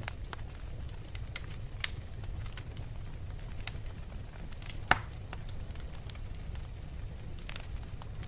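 Wood fire burning in a fireplace: a steady low rumble of the flames with scattered crackles and pops from the burning logs, two sharper snaps about two and five seconds in.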